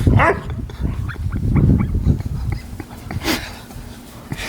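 A husky whining and yipping in a string of short, high calls. One rising call comes near the start and another a little after three seconds.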